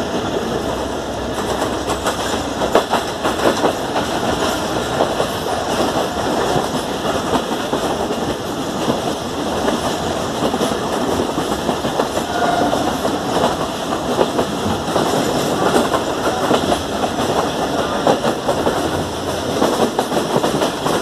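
Passenger train running at speed, heard from inside a coach: a steady rumble and rattle of steel wheels clattering over the rail joints.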